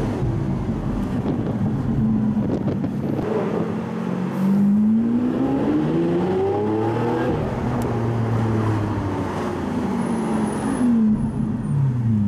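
Lamborghini supercar engine heard from inside the cabin, pulling away about four seconds in with a rising note. It holds a steady cruise, then falls in pitch near the end as the car slows.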